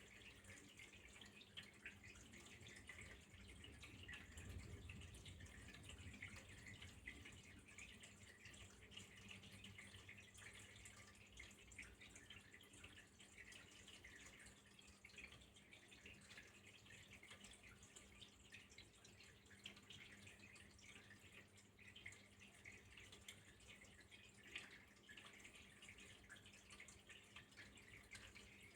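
Faint trickling water with a steady patter of small drips and splashes, with a low steady hum underneath.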